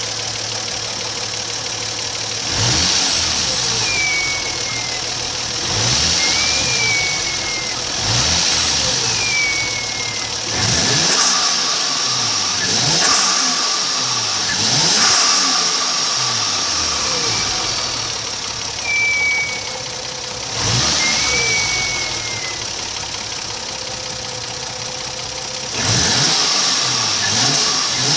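Toyota 1JZ-GTE twin-turbo straight-six revved in a series of short blips, about eight in all. On each throttle lift the Greddy Type RS blow-off valve vents with a hiss while the turbo whistle falls away.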